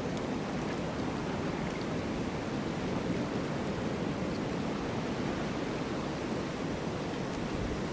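Snowstorm wind blowing as a steady, even rushing noise, with no single gust or impact standing out.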